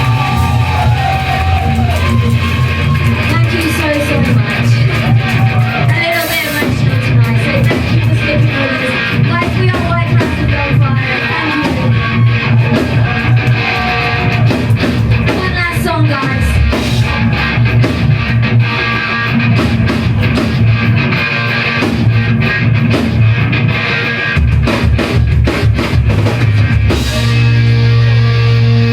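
Live rock band playing: electric guitars, bass and drum kit, with a gliding lead guitar or vocal line over the top.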